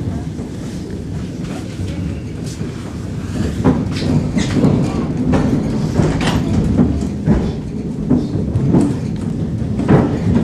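Electric train noise heard from inside a carriage: a steady low rumble, with irregular knocks and clanks that start after about three and a half seconds and come every half second to second.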